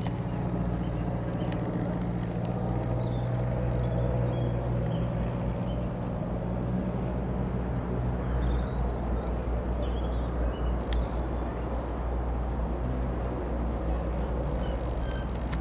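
Single-engine piston light aircraft droning steadily at a distance, its low engine note shifting slightly in pitch midway. Birds chirp now and then.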